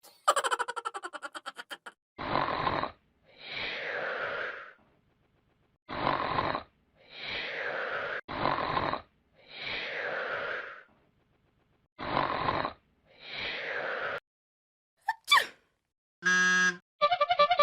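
A run of short comic meme sound effects. First comes a fast rattle, then a short burst followed by a longer falling noisy sound, repeated three times, then a quick whistle-like glide and a buzzing tone near the end.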